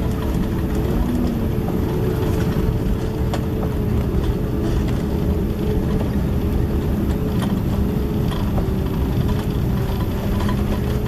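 Cabin noise inside a Boeing 767-300ER: the jet engines' steady drone over a deep rumble, with a constant hum running through it.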